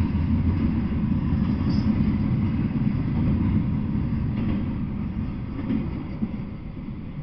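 Double-stack intermodal freight train's well cars rumbling past on the rails, the sound dying away over the last few seconds once the end of the train has gone by.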